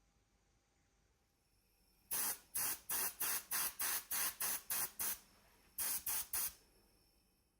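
Quick short bursts of hissing spray, about ten in a row at roughly three a second, then a brief pause and three more.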